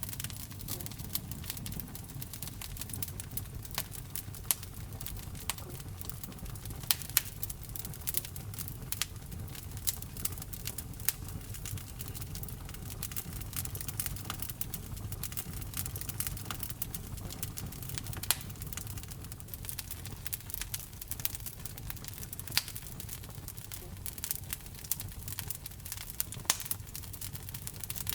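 Wood fire burning in a fireplace: irregular sharp crackles and pops over a low, steady rumble of the flames, with a few louder pops.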